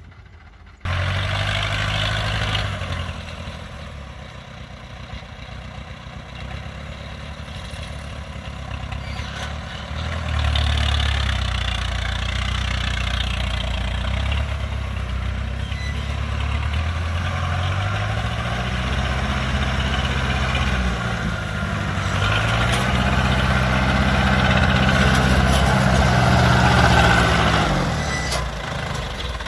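Diesel engine of a tracked rice-harvesting machine running, its speed rising and falling several times and getting louder partway through. The sound cuts in abruptly just under a second in.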